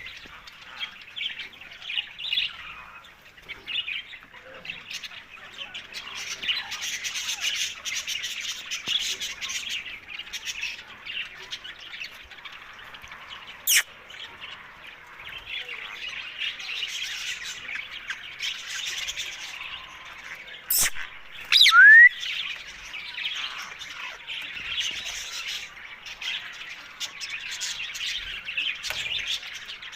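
Ringneck parakeet chattering and chirping on and off, with a few sharp clicks and one loud, short rising squawk about two-thirds of the way through.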